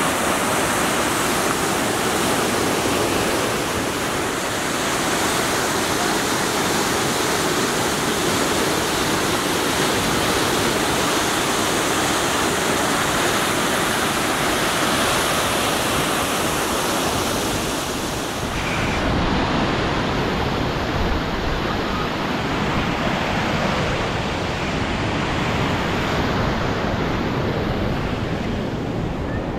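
Steady roar of the Maligne River's whitewater rushing through the canyon gorge. About two-thirds of the way through the hiss thins and a deeper rumble comes up.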